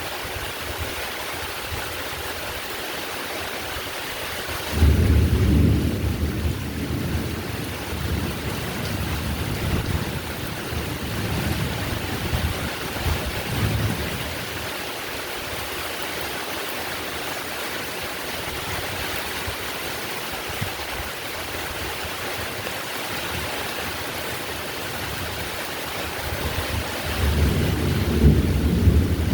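Heavy rain falling steadily, with a roll of thunder that starts suddenly about five seconds in and rumbles away over the next several seconds, and another building near the end.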